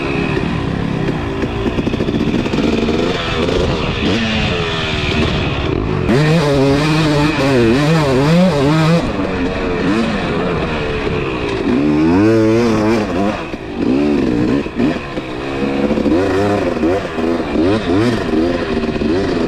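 Two-stroke dirt bike engine, a Husqvarna TC250, being ridden hard: its pitch rises and falls again and again with throttle and gear changes, and it briefly backs off about two thirds of the way through.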